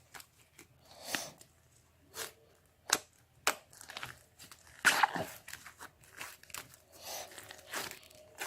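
Irregular sharp crunching and crinkling sounds, about a dozen separate crunches, the loudest about five seconds in.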